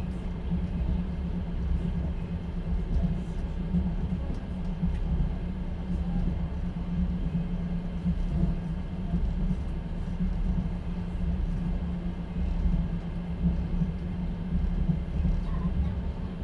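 Steady rumble of a moving passenger train, heard from inside an open-plan sleeper carriage.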